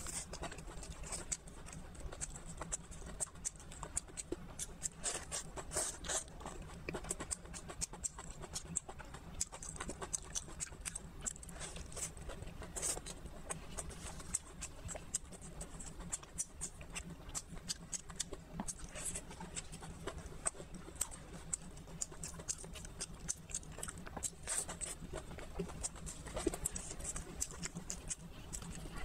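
Close-miked chewing and mouth sounds of someone eating a thin pancake wrap rolled around stir-fried vegetables: many small clicks and smacks, with a steady low hum underneath.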